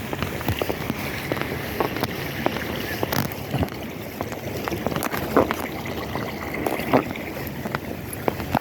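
Water splashing and lapping with scattered irregular knocks, as from a small boat on a lake, with wind on the microphone.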